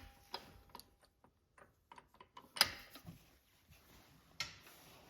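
Scattered metallic clicks and knocks from a torque wrench and 32 mm socket working on a car's rear axle nut, with the sharpest click about two and a half seconds in.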